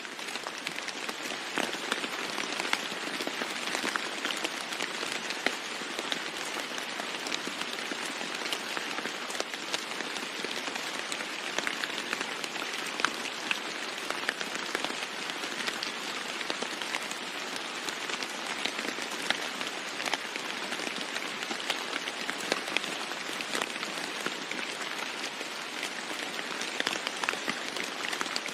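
Heavy rain falling steadily on a roof: a dense hiss full of sharp drop taps, swelling in over the first second.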